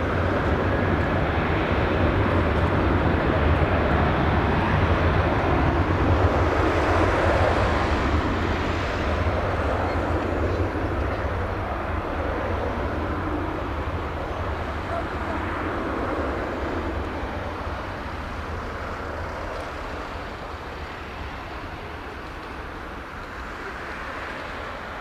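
Airbus A321's IAE V2500 turbofan engines passing by: a steady jet roar that builds to its loudest a few seconds in, then slowly fades as the aircraft moves away.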